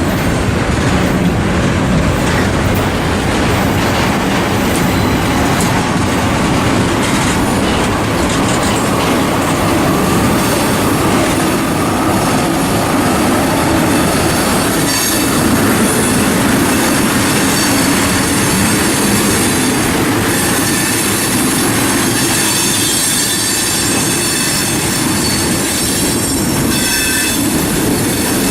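Freight cars of a long manifest train rolling past on a curve, wheels clicking over rail joints. A high-pitched wheel flange squeal grows stronger about halfway through.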